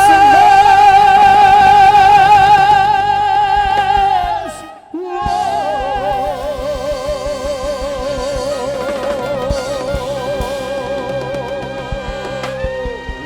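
Operatic-style singing over band accompaniment: a long held high note with wide vibrato, a short break about five seconds in, then a second long held note at a lower pitch, also with vibrato, that ends near the end as the song closes.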